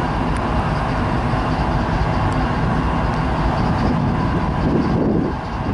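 Diesel-electric freight locomotives running in a rail yard: a steady, loud engine rumble.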